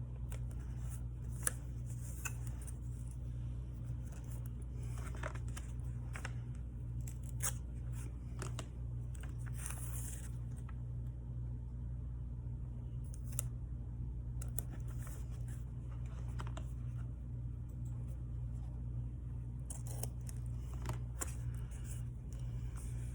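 Scissors snipping and paper being handled at a craft desk: scattered sharp clicks and short rustles over a steady low hum.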